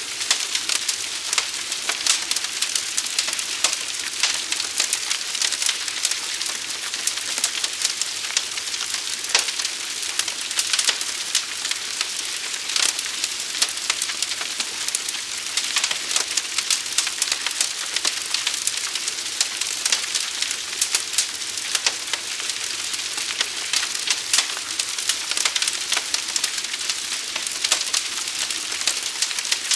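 Fire crackling: a steady high hiss thick with small sharp pops and snaps.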